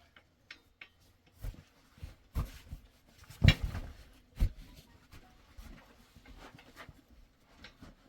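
A few irregular knocks and thumps, the loudest about three and a half seconds in, with lighter clicks between them.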